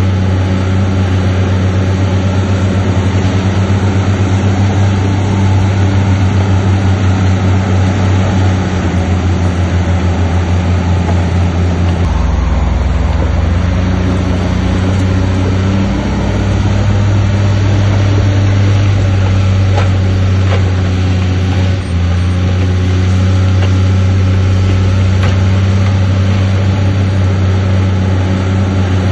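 Heavy diesel engine of earthmoving machinery running steadily. Its low note shifts a few times as throttle or load changes, with a brief dip about three-quarters of the way through.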